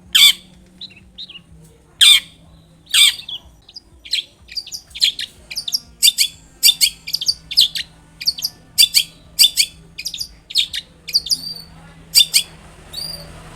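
Long-tailed shrike singing in full voice: three loud, harsh screeches in the first three seconds, then a fast run of shorter, high chattering notes, about two or three a second, that stops shortly before the end.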